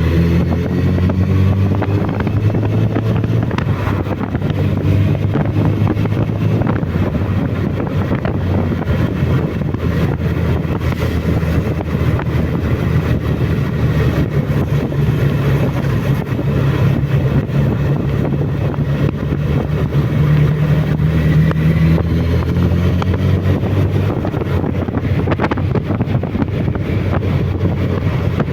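Suzuki Bandit motorcycle engine running at speed, its note drifting gently up and down, with wind buffeting the microphone.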